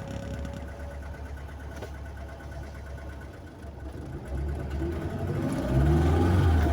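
Car engine and road noise while driving, a steady low rumble that grows louder over the last two seconds or so.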